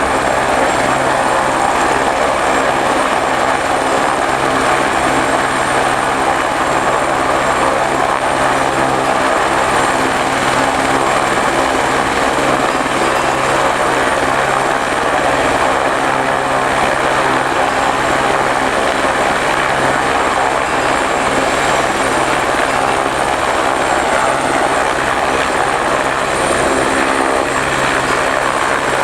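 Helicopter engine and rotor running steadily in flight, a loud, unbroken drone with a steady low hum.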